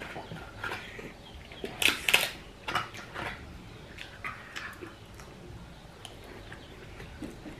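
Eating sounds: chewing and lip-smacking, a run of short wet clicks and smacks, loudest a pair about two seconds in.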